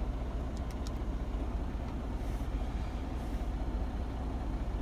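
Semi-truck diesel engine idling steadily with a low rumble, with a few light clicks about half a second in.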